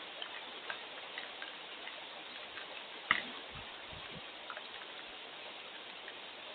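Steady rain hiss with scattered drops tapping irregularly on a hard surface, one sharper tap about three seconds in.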